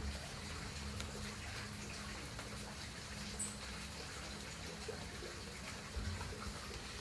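Steady patter of light rain, with a faint low hum underneath and a few small ticks.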